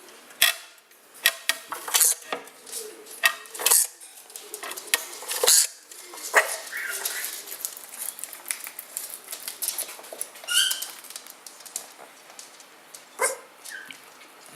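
Pigeons moving about in a loft: a string of sharp knocks and clatters, with a few short high calls.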